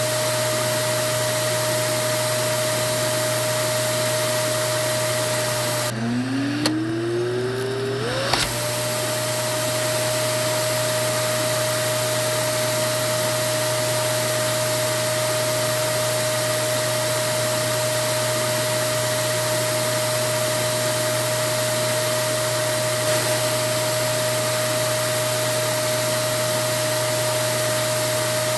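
Vacuum cleaner motor running steadily, a rushing noise with a constant high whine. About six seconds in it briefly drops away and winds back up over about two seconds, its whine rising in pitch until it is back at full speed.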